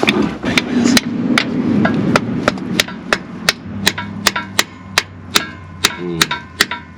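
A steady run of hammer blows, about three a second, each with a short ring: tapping a tool in to break the thick sealant bead holding a truck's automatic transmission pan.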